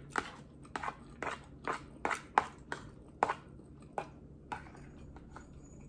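Someone chewing a mouthful of ramen noodles close to the microphone: a run of short smacking mouth clicks, about two or three a second, trailing off near the end.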